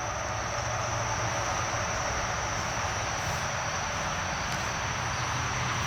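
Steady outdoor background: a low, even mechanical hum under a constant high-pitched insect chorus.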